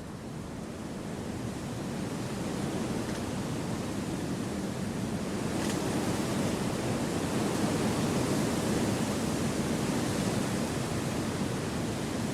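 Wind blowing through forest trees: a steady rushing that swells over the first few seconds, then holds.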